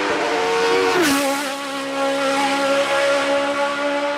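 Hillclimb race car engine running at high revs, its note dropping sharply about a second in and then holding steady.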